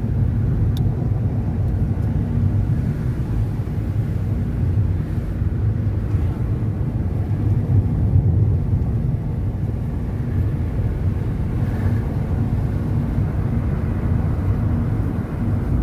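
Steady low rumble of a car's engine and road noise heard from inside the moving car, with a faint steady hum.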